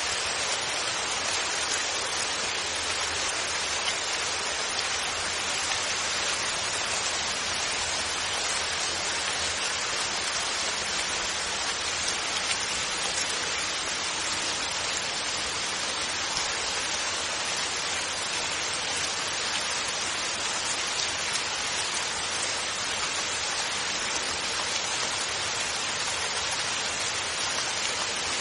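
Steady rain falling, with no thunder: an even, unbroken hiss of raindrops.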